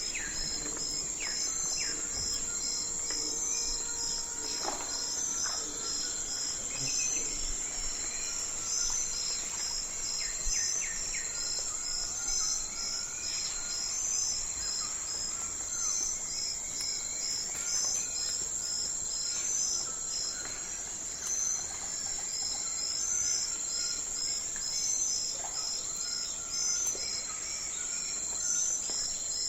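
Night forest ambience: insects such as crickets singing in a continuous high trill, with a regular pulsing chirp just below it and scattered short chirps and calls from other creatures lower down.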